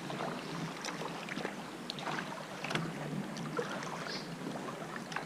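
Sea water sloshing and lapping against a kayak, with many small sharp splashes and drips scattered through it.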